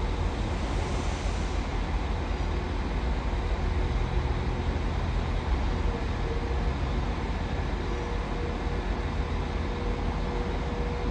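A train running at a station platform: a steady low rumble with a faint steady hum above it.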